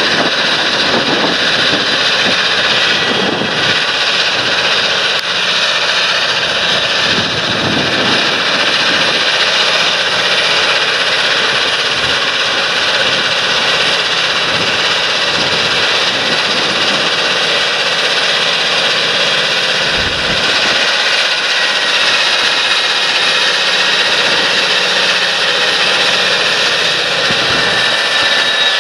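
Large John Deere tractor's diesel engine running steadily under load, with a thin steady whine over the engine noise.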